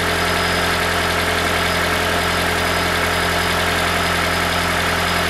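2012 Toyota Prius v's 1.8 L 2ZR-FXE four-cylinder engine running steadily at idle with a metallic rattle, which the owner traces to the exhaust heat shield, whose metal washers are worn. The sound cuts off suddenly at the very end.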